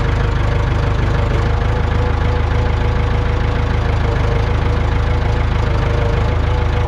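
Old backhoe's engine running steadily just after starting up, with a steady whine over the engine note.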